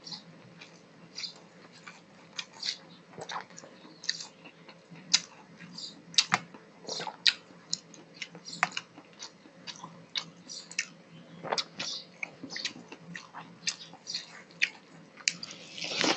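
Close-miked eating by hand: wet chewing of mouthfuls of rice and fish with sharp lip smacks and mouth clicks, irregular, a few a second, and a louder smacking burst near the end as a fresh handful goes in. A faint steady low hum runs underneath.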